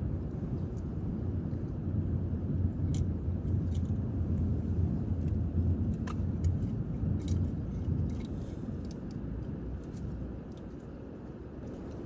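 A low rumble that swells over several seconds and then fades, with a few light clicks scattered through it.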